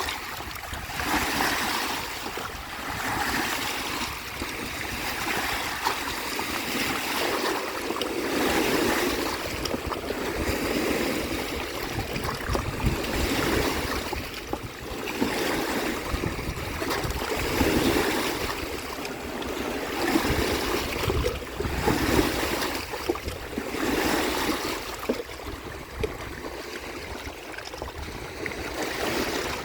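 Small lake waves washing against the shore, each wash swelling and fading in a rhythm of about one every two seconds.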